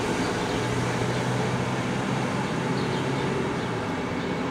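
Passenger train of Intercity carriages hauled by an E.402B electric locomotive, rolling past on the track with a steady rumble. A low steady hum under it stops near the end.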